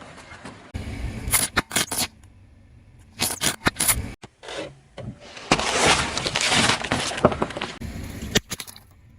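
Crunchy items cracking and breaking as a car tyre rolls over them. A few sharp cracks come about a second in and another cluster about three seconds in. Then a denser crunching lasts about two seconds, followed by a couple of last cracks.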